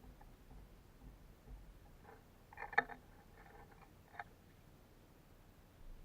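Small birds at a suet feeder making a few faint, short clicks and taps, the loudest just before three seconds in.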